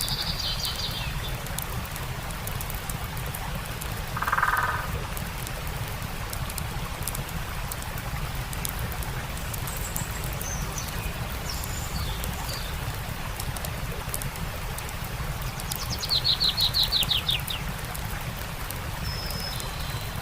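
Steady rush of a stream with a campfire crackling faintly, and birds calling over it: a brief falling call at the start, a short lower call about four seconds in, and a rapid trill of about ten quick notes near the end, the loudest sound.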